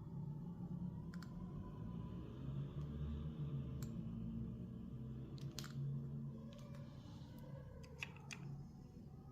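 Faint, scattered clicks and light taps, a second or more apart, over a low steady hum, with a small cluster of clicks near the middle and two more near the end. They fit pen-and-paper work at a drawing desk.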